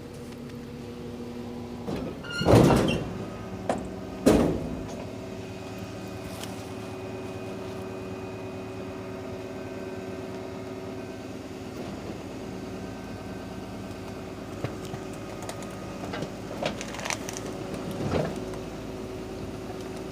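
Rear-loading garbage truck running steadily with its hydraulic bin lift working, a bin being lifted and tipped into the hopper. Two loud bangs about two and a half and four seconds in, with a few smaller knocks and clatters near the end.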